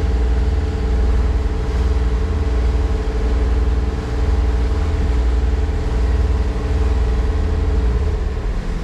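Sailing yacht's motor running steadily under way, a constant pitched hum over a heavy low rumble; the hum drops away near the end.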